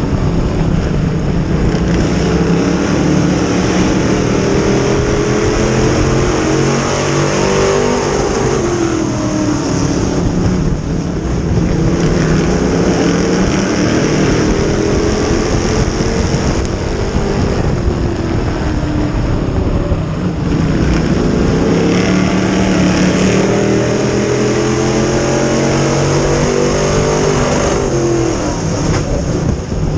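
Dirt-track modified race car engine running hard at racing speed. Its pitch climbs and then drops sharply several times, as it would when the driver accelerates out of each turn and lifts again going into the next.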